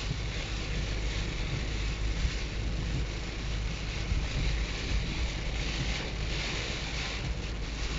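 Storm wind blowing hard and buffeting the microphone, a steady rushing hiss over a low rumble that swells a little in gusts.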